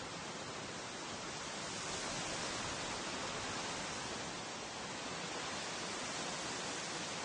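Wind blowing through trees, a steady rushing rustle of foliage that swells and eases a little.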